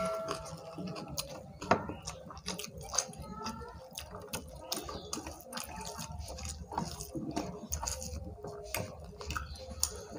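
Close-miked chewing and lip-smacking of two people eating rice and curry with their hands, with many short wet clicks and squelches as fingers mix the food on the plates.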